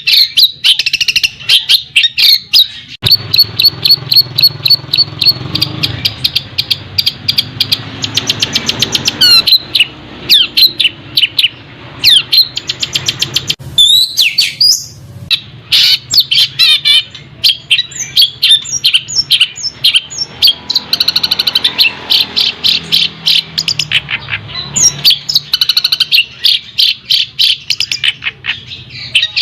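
Songbird singing a fast, varied stream of chirps, trills and rapidly repeated notes, with hardly a pause.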